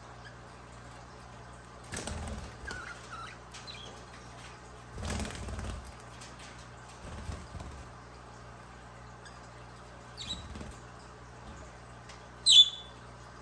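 Budgies making a few short bursts of wing flapping and rustling, with soft chirps in between. Near the end comes one loud, sharp budgie chirp.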